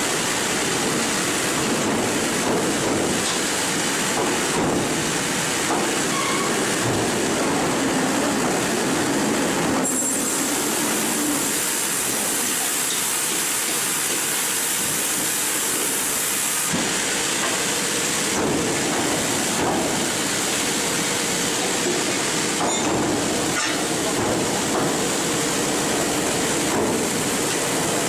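Sawmill machinery running with a steady, loud mechanical clatter and rumble. A brighter high hiss joins in about ten seconds in and stops sharply about seven seconds later.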